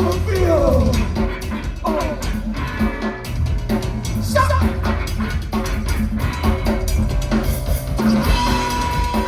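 Live rock band playing loud, heard from the crowd: busy drum-kit beats with kick and snare over a sustained bass, with pitched lines sliding up and down at a few points.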